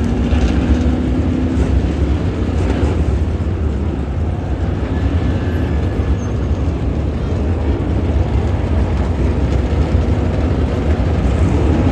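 Dirt late model race car V8 engine running at speed: a steady, loud drone with no let-up.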